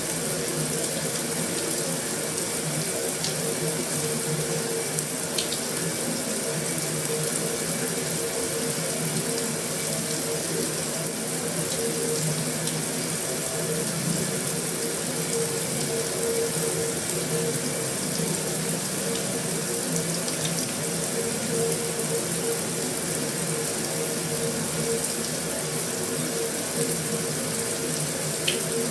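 Heavy rain falling steadily on a metal roof, an even hiss with a few sharper ticks from single drops.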